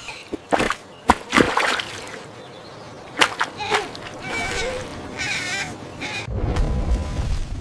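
Cartoon sound effects: a run of splashy knocks and clatters, a short warbling call, then a low engine rumble that starts near the end and keeps going.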